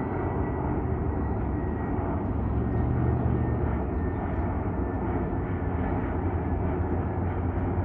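Airplane engine noise: a steady dense rush with a faint high whine that fades out early on.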